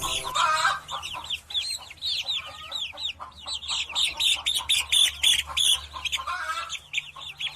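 Birds chirping in quick succession, many short high peeps one after another, over a faint low steady hum.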